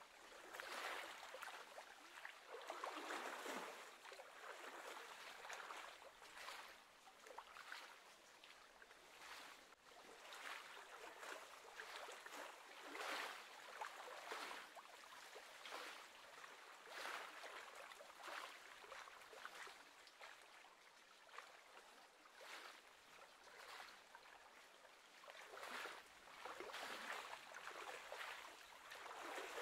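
Faint lapping of small wind-driven waves against the lake edge, swelling and fading irregularly every second or so.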